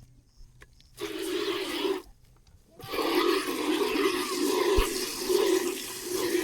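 Milk squirting into a container as a cow is milked by hand: a short run of spurts about a second in, then, after a brief pause, a steady run of hissing squirts pulsing about twice a second.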